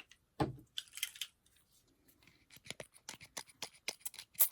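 Tabletop crafting sounds: a short hiss about a second in, likely a pump spray bottle misting ink onto test paper, then a run of quick small clicks and paper handling.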